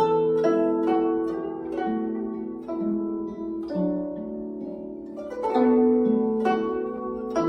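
Guzheng playing a slow melody, plucked notes ringing on and overlapping, with a louder group of plucks about five seconds in.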